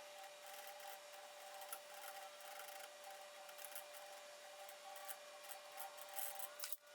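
Faint rubbing and light scraping of a fingertip spreading a thin film of RTV gasket sealant over an engine timing cover's mating surface, with a few soft ticks, over a steady faint hum.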